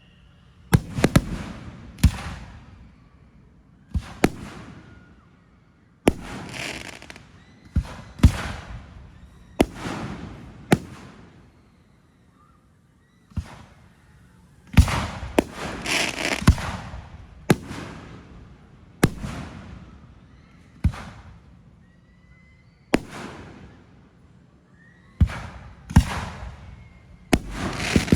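Aerial fireworks bursting one after another, a sharp bang every second or two, each followed by a fading rumble and crackle. A brief lull comes in the middle, and near the end a rapid string of crackling pops.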